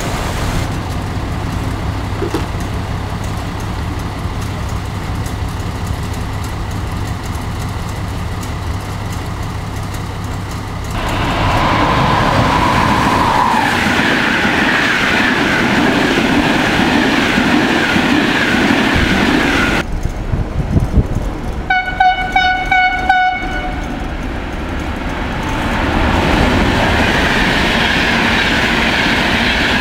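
Steady low hum for the first ten seconds or so, then an Intercity passenger train rushing through the station at speed. After that a train horn gives a few short blasts, and an ETR high-speed electric train rushes past.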